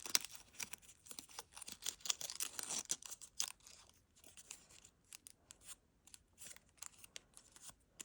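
Scissors snipping a strip of paper and the paper crinkling as it is handled: a dense run of sharp crackles for the first three seconds or so, then sparser small clicks.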